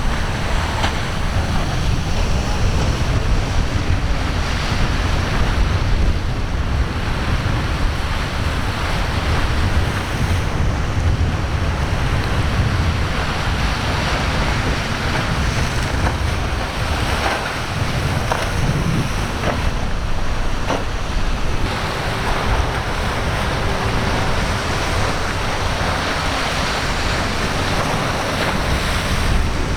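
Waves breaking and surging at an ocean inlet, with wind buffeting the microphone into a heavy low rumble. A faint steady hum joins about two-thirds of the way through.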